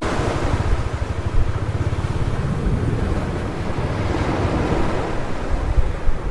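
Ocean surf breaking and washing up a beach, with a surge right at the start and another swell about four seconds in. Wind buffeting the microphone adds a low rumble.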